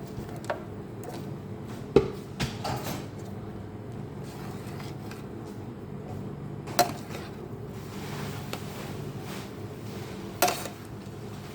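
Kitchen dishes and utensils knocking and clinking a few times, the sharpest knock about two seconds in, over a steady low hum.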